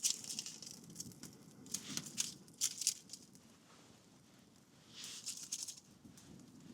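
Faint scraping and rustling as a knife cuts into cooked food, in short strokes over the first few seconds and a longer scrape about five seconds in.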